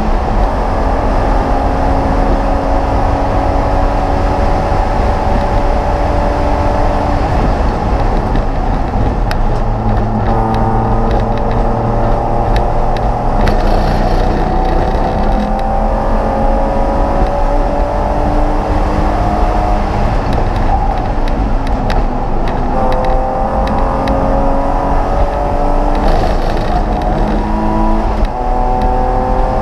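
Race car engine heard from inside the stripped, caged cockpit, running hard at speed. Its pitch climbs slowly through long pulls and drops back a few times, over wind and road noise.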